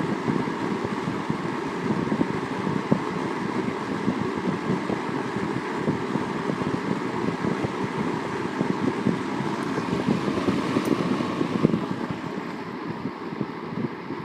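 Kmart C-14 box fan running on its high setting: a steady rush of air over a low drone. It turns a little quieter about twelve seconds in.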